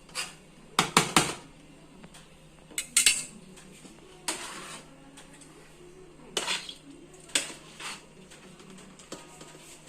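Metal utensils clanking and scraping against a cooking pot in short bursts of knocks, as rice is spooned in to layer a biryani.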